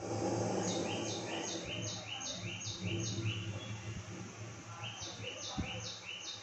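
A bird calling a rapid series of short, high, repeated chirps, about three a second, in two runs with a short gap between them. A faint steady low hum lies beneath.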